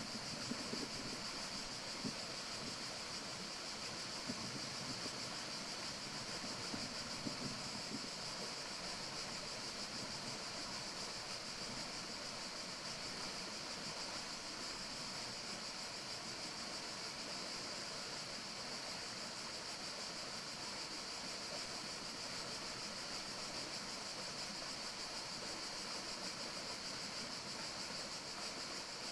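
Steady forest ambience: an even rushing hiss with a constant high-pitched shimmer over it, and light irregular rustling during the first several seconds.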